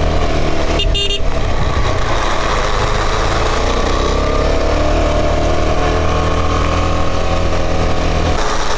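Motorcycle engine running steadily under way, its note rising gradually in the middle, with a haze of wind and road noise. A brief high-pitched beep sounds about a second in, and the engine's low hum falls away near the end.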